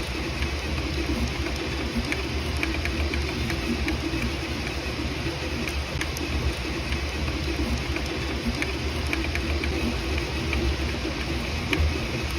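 Sovol SV06 FDM 3D printer running a print: a steady hum of stepper motors and cooling fans with many light ticks as the print head moves.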